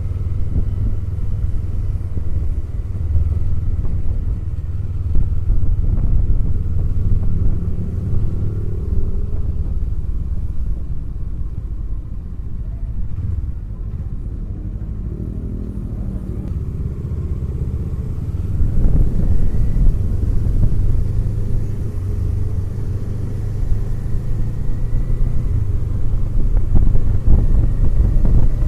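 2024 Kawasaki Eliminator SE's parallel-twin engine running under way, with its revs rising and falling several times and a clear rev-up about two-thirds of the way through, over a steady low rumble.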